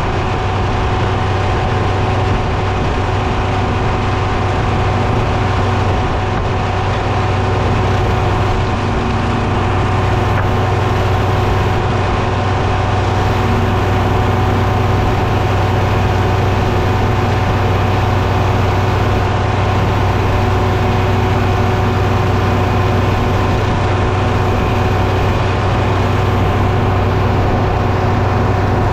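Engine running steadily at a constant speed, a steady low hum with a few higher steady tones and no change in load.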